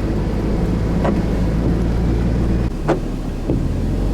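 Car driving: steady low engine and road rumble, with a few short knocks over about two seconds apart.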